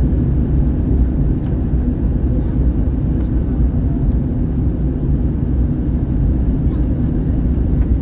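Steady low rumble of an Airbus A321-111 in flight, its CFM56-5B engines and the airflow heard from inside the passenger cabin.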